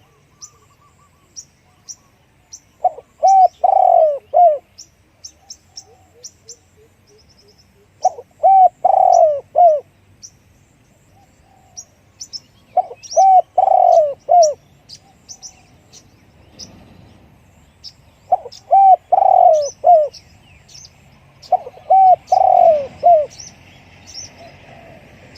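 Spotted dove cooing: five phrases of four or five quick notes each, about every five seconds. Small birds chirp thinly and high throughout.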